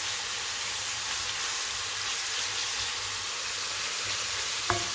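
Diced bacon and onions sizzling steadily in a frying pan over medium-low heat, with one sharp knock near the end.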